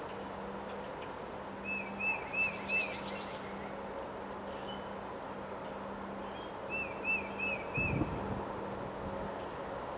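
A bird calling two quick runs of four short chirps, one about two seconds in and one about seven seconds in, over a steady rush of wind noise with a low hum. A brief low thump comes about eight seconds in.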